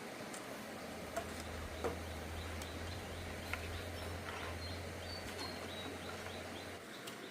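Rural outdoor ambience: small high chirps repeating several times a second, a few sharp knocks, and a low hum that stops near the end.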